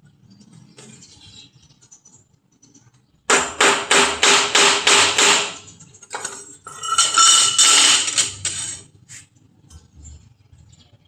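A hammer striking metal in a quick run of about four ringing blows a second, starting a few seconds in. A second loud, denser stretch of metal clattering follows, then it goes quiet near the end.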